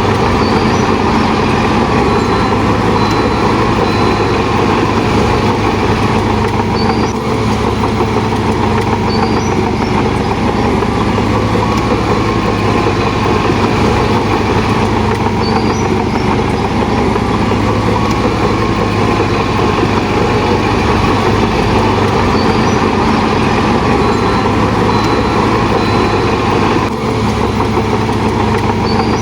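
Heavy diesel engine of earthmoving machinery running steadily, with brief dips in level about seven seconds in and again near the end.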